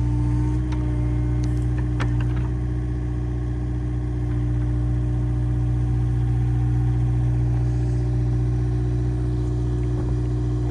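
Engine running steadily at a constant speed, with a few light clicks or knocks in the first two seconds.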